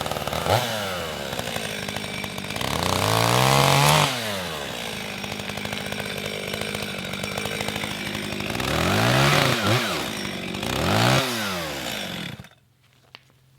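Echo CS-510 two-stroke chainsaw running, revved up and back down several times, then cut off suddenly about a second before the end.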